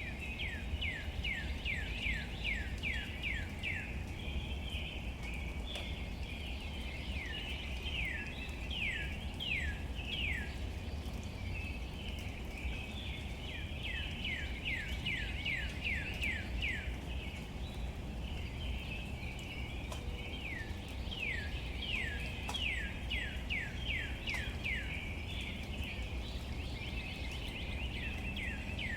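A bird calling in runs of quick, falling chirps, several a second, in spells of a few seconds at a time, over a steady low rumble and faint scattered patter of rain on leaves.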